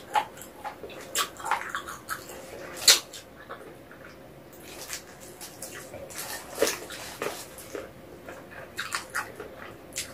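Close-miked eating sounds of a person chewing spicy chicken feet and rice cakes: irregular wet smacks and clicks of the mouth, with a sharp loud smack about three seconds in.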